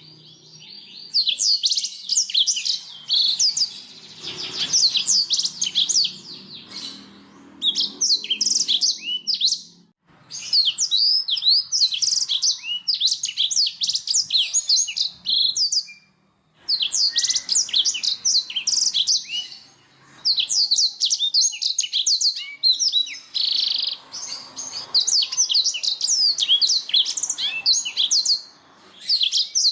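Domestic canary singing: long phrases of rapid chirps and rolling trills, broken by short pauses of about half a second.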